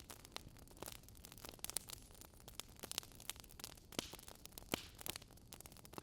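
Wood fire crackling: irregular sharp pops and snaps of uneven loudness, several a second, over a soft steady hiss.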